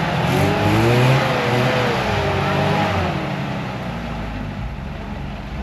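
Off-road 4x4's engine revving hard under load. The pitch climbs in the first second, then slowly drops and eases off after about three seconds, over a steady rushing noise.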